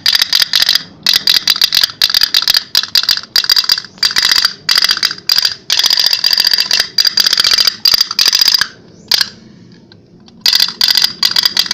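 Toy pop-pop steam boat (kapal api) running: its tin boiler ticking in a rapid metallic 'tek tek tek', many ticks a second. The ticking stops about nine seconds in and starts again a second and a half later.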